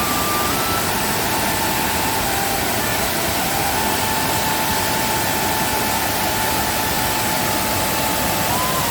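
Waterfall in rainy-season spate: a steady, unbroken rush of falling water, with a faint thin wavering tone above it.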